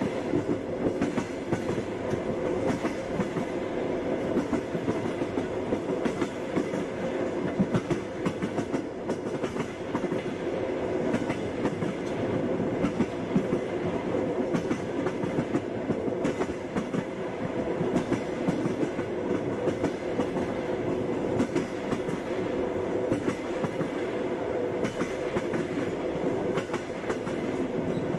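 Passenger train wheels running on the rails: a steady rolling rumble packed with a continuous fine clatter.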